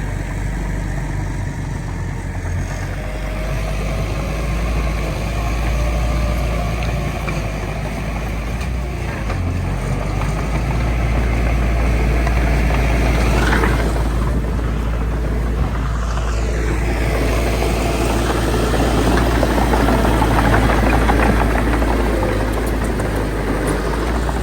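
Diesel engines of heavy earthmoving machinery running continuously with a deep rumble. They grow louder toward the middle and again near the end, with some shifts in pitch a little past halfway.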